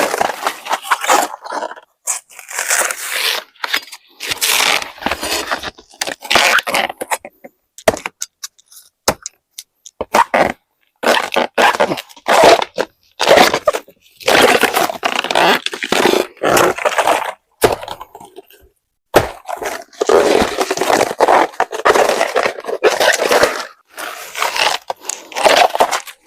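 Repeated rough scraping strokes in irregular bursts, with a few sharp knocks around the middle.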